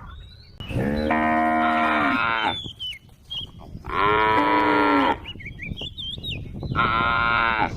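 Cows mooing: three long moos one after another, each held for one to two seconds.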